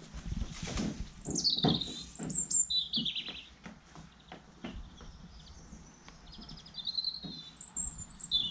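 Garden birdsong: short phrases of high chirps that fall in pitch, and a quick trill a little after halfway. Soft knocks and scrapes are scattered underneath.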